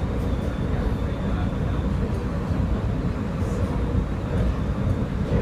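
Cabin noise inside a SEPTA Silverliner IV electric multiple-unit railcar running at speed: a steady low rumble of wheels on rail, with a faint, steady high whine over it.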